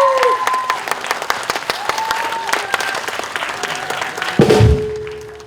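An audience applauds, with cheering shouts, most heavily in the first second. Near the end a loud low thump is followed by a steady held tone.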